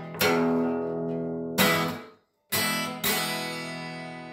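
Acoustic guitar strumming chords, each chord left to ring. The playing cuts out briefly about two seconds in, then two more strums follow and ring out.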